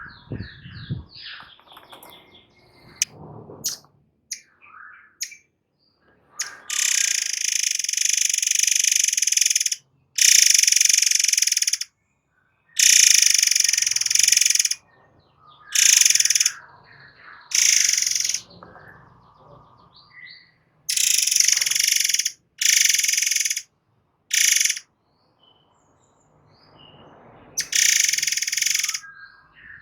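Murai air bird singing in loud, harsh, rapid-fire bursts: about nine dense rattling strophes of one to three seconds each, with softer short chirps in the gaps between them.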